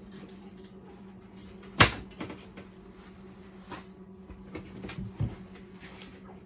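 A sharp knock about two seconds in, the loudest thing here, and a smaller knock about five seconds in, over a steady low hum.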